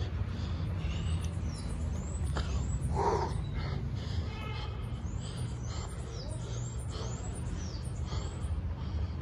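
Birds calling in the trees: repeated short high calls, with a louder harsh call about three seconds in, over a steady low rumble.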